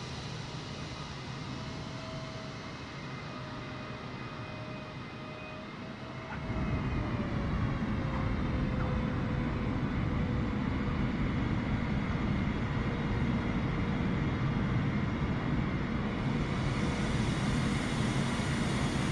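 Jet airliner engines: a steady whine, then about six seconds in a sudden, louder low rumble that stays, while the whine drifts slightly lower in pitch.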